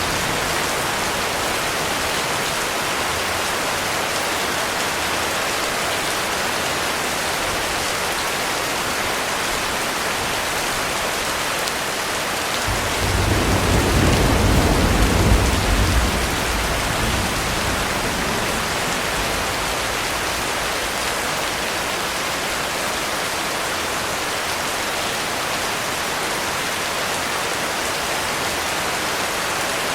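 Heavy rain falling steadily in a dense hiss. About a third of the way through, a roll of thunder rumbles low for a few seconds and fades.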